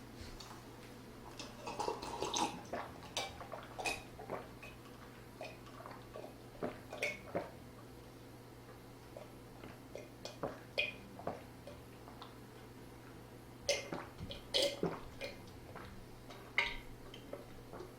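Eating and drinking sounds: irregular short, wet clicks and smacks, some sharper and louder than others, with no words.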